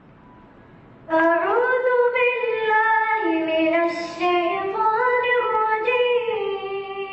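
A single high voice chanting one long melodic phrase, unaccompanied, starting about a second in, with the pitch rising and falling in ornamented turns.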